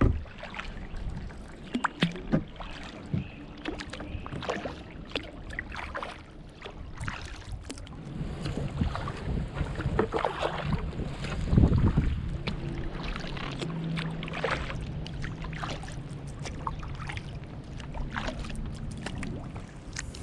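Kayak paddle strokes, the blades dipping and splashing in the water at an uneven pace, with drips. Wind buffets the microphone from about halfway through.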